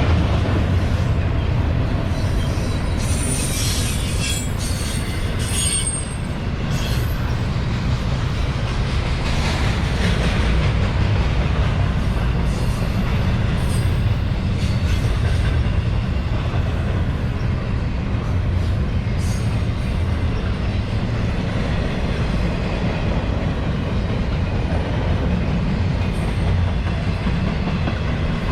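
CSX intermodal freight train rolling past, a steady heavy rumble of wheels on rail, with brief high-pitched wheel squeals about three to six seconds in.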